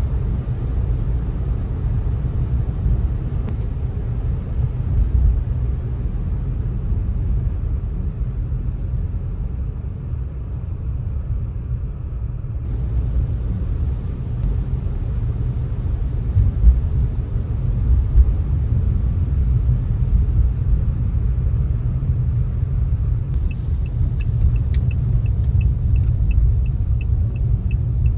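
Car driving on a wet road: a steady low rumble of tyres and engine. Near the end a light regular ticking starts, about two ticks a second.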